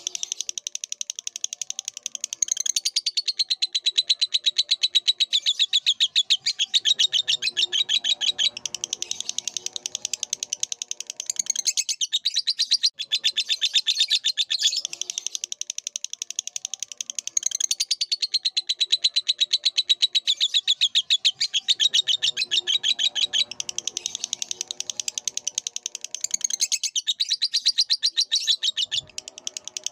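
Lovebird singing a long, fast chattering trill made of rapid chirps run together, with a few short breaks. A softer, lower warbling sounds underneath it twice.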